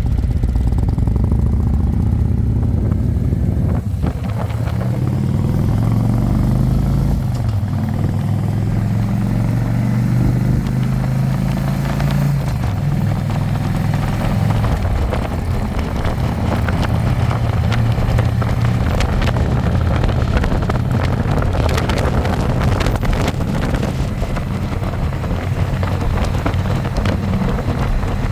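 Harley-Davidson Electra Glide's V-twin engine running under way, heard from the passenger seat, its pitch climbing for several seconds as the bike accelerates and then holding steady, with wind rushing over the microphone.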